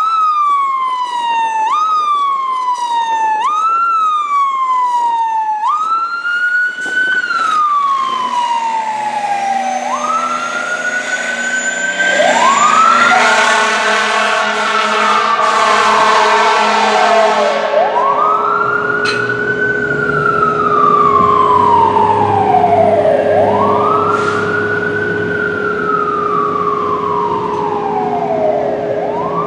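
Siren of a 2003 Pierce Arrow XT fire engine on an emergency response. Each cycle rises sharply and falls slowly, repeating about every second and a half at first, then slowing to long wails several seconds apart. A steady lower tone joins about twelve seconds in, and the sound is loudest around the middle.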